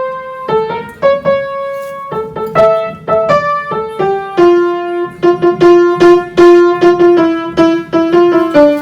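Piano music: a melody of single struck notes with chords beneath, quickening a little over the last few seconds.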